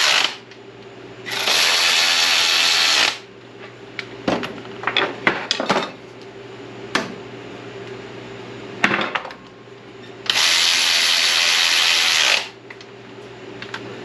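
Handheld power drill run in two bursts of about two seconds each, the motor whining steadily under load, with metal clinks and taps between, likely driving in the cover bolts on an SM465 transmission.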